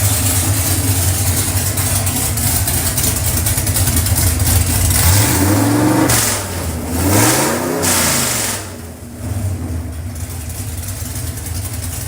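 302 cubic-inch small-block Ford V8 with a custom hydraulic roller cam and Brawler carburetor running on an engine dyno: it idles, is blipped twice in quick succession about halfway through, the revs rising and falling each time, then settles back to idle.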